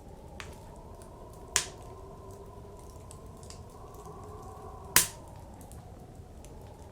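Wood fire crackling, with a sharp pop about a second and a half in and a louder one about five seconds in, over a steady low blizzard wind with a faint wavering howl.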